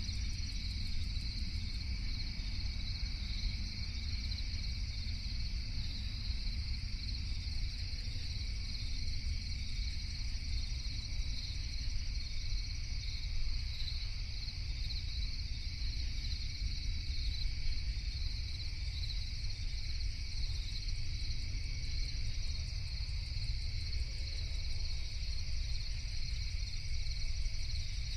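Night crickets chirping in a steady, continuous chorus with two high, even pitches, over a low steady rumble.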